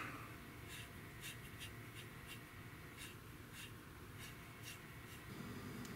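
Faint, irregular short swishes of a broad filbert paintbrush sweeping oil paint across the plastic surface of a scale-model aircraft.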